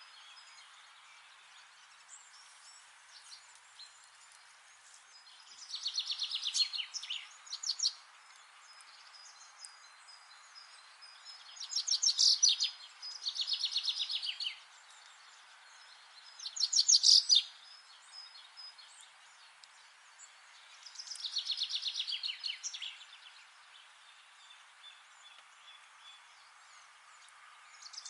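A songbird singing short phrases of rapid notes that fall in pitch, each phrase about one to two seconds long and repeated every few seconds, over a steady faint hiss.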